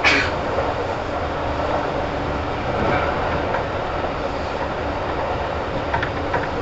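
Kintetsu 2800 series electric train heard from inside the car while running: a steady rumble of wheels on the rails. There is a sharp knock right at the start and a few light clicks near the end.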